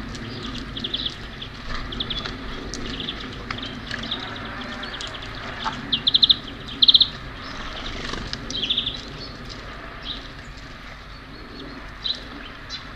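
Small songbirds chirping repeatedly in short, rapid series of high notes, the two loudest about six and seven seconds in.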